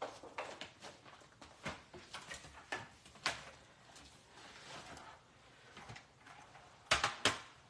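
Rummaging through paper and craft supplies on a desk: scattered rustles, taps and small knocks, with two louder knocks in quick succession about seven seconds in.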